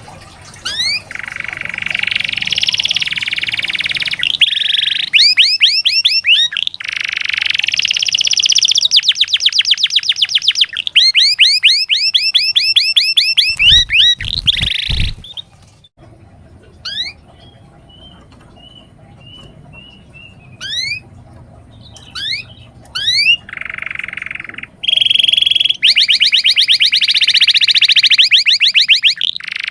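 Domestic canary singing loud, fast rolling trills and rapid upward-sweeping notes. Around the middle it drops to a few scattered chirps and a short run of soft whistled notes, then the trilling starts again.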